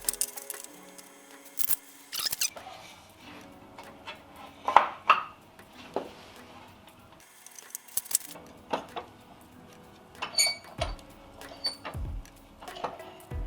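Scattered knocks, clinks and short scrapes of hand tools working hardwood, over quiet background music.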